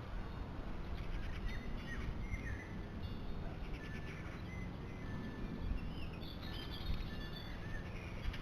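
Small birds at feeders chirping and calling: scattered short chirps and quick pitch glides, with a rapid burst of notes about a second in and a higher call past the middle, over a steady low rumble.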